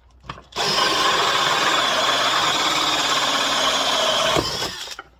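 Electric power drill running steadily for about four seconds, drilling into wood, then stopping.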